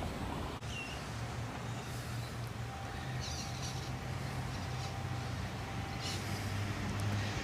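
A vehicle's steady low mechanical hum, with a faint steady higher tone joining in for a few seconds midway.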